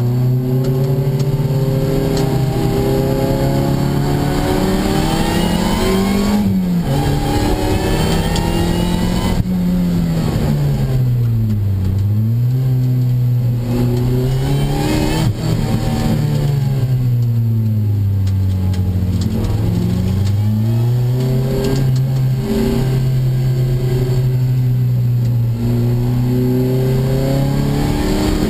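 Opel Speedster engine heard from inside the cabin while driven hard on track, its note climbing through the revs and falling again several times as gears are changed and the car slows for corners.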